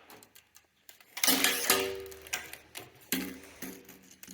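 Several sharp metallic knocks, in two pairs and then one more, each ringing briefly with a pitched tone, as a table saw's rip fence is knocked and shifted along its metal rail.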